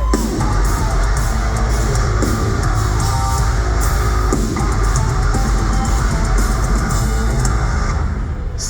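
Metalcore band playing live: heavy distorted guitars, bass and a pounding drum kit, loud and dense, with a brief break in the cymbals just before the end.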